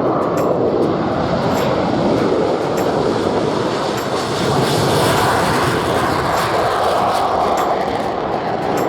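Military jet aircraft engine noise: a loud, steady rushing roar that swells slightly about five seconds in.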